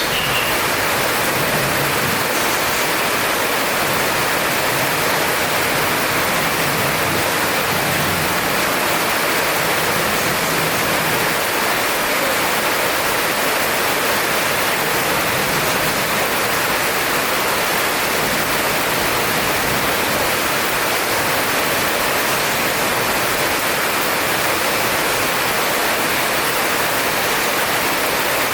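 Heavy rain pouring steadily, a loud, dense, even hiss.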